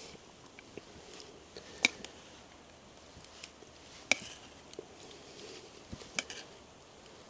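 Three sharp knocks about two seconds apart, with a few faint ticks between.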